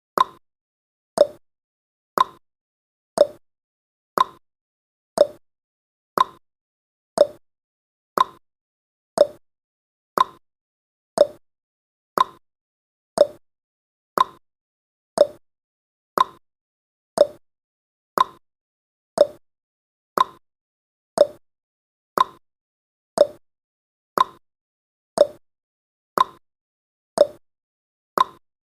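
Countdown timer tick sound effect: a short, sharp tick about once a second, evenly spaced.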